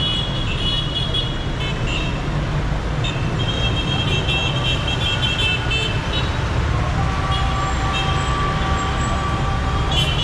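Dense city traffic with engines rumbling and car horns honking repeatedly: high horn toots come and go several times, and a lower, steady horn holds for about three seconds from about seven seconds in.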